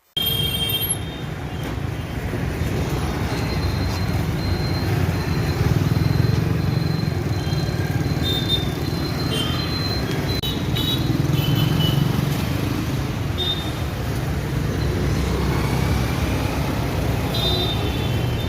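Road traffic noise: a steady rumble of passing vehicles, with short high-pitched tones here and there.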